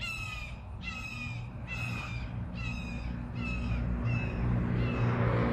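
A crow cawing in a steady series, about one caw every 0.7 seconds, the caws growing fainter and dying out near the end. A vehicle's engine hum rises underneath in the last second or so.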